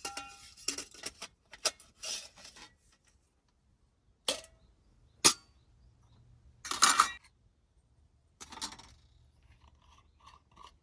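Camping gear being handled: irregular clicks, clinks and rustles in the first couple of seconds, two single sharp knocks around four and five seconds in, louder rustling scrapes near seven and eight and a half seconds, and faint short clinks near the end.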